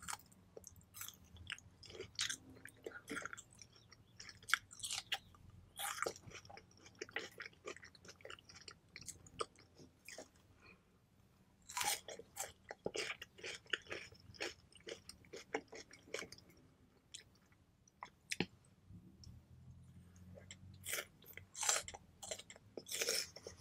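A person eating pho noodles: wet chewing with quick sharp smacks, in clusters with short pauses.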